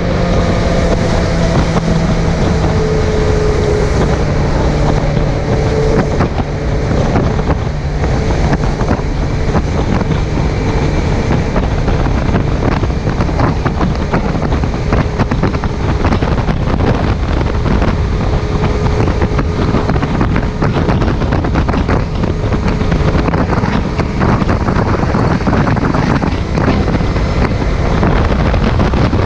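Wind rushing over the microphone of a Suzuki GSX750F motorcycle at road speed, with the inline-four engine's note underneath. The engine note falls a little over the first few seconds, then is buried in the wind noise.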